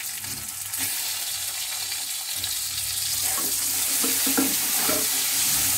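Sliced tomatoes dropped into hot oil in a kadai of frying onions, green chillies and capsicum; the sizzle jumps up about a second in and keeps getting louder. A spatula scrapes and stirs the pan a few times in the second half.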